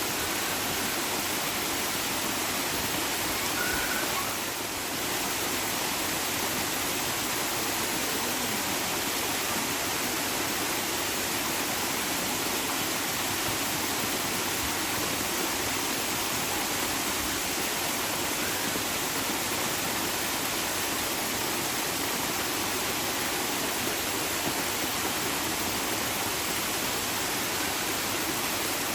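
Running water rushing steadily in an even, unbroken hiss, like a stream or small waterfall.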